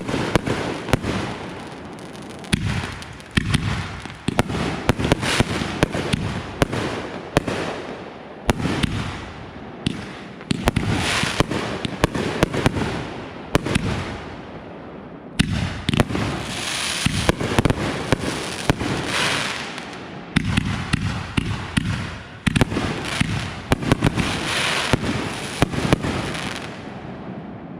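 Consumer fireworks firing in rapid, dense volleys: many sharp bangs from cakes and artillery shells with crackle between them, dying away near the end.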